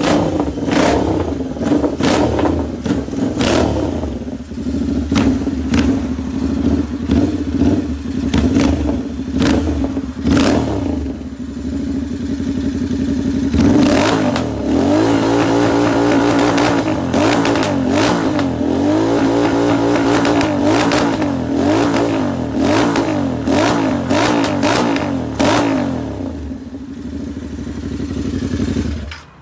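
Motorcycle with a loud aftermarket exhaust, running at a steady idle with many sharp cracks and pops. About halfway through it is revved up and down repeatedly, the pitch swinging up and back.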